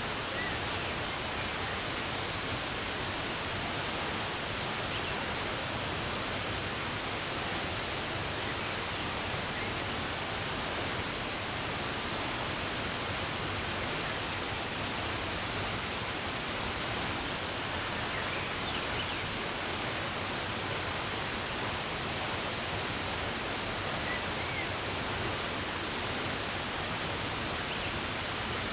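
Steady rush of running water, with a few faint bird chirps.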